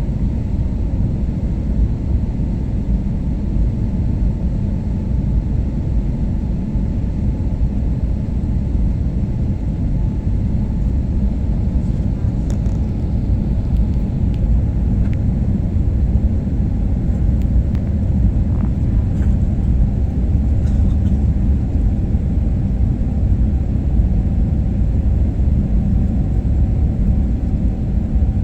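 Steady low rumble of an airliner's engines and airflow during the landing approach, as heard inside the cabin, with a faint steady whine above it.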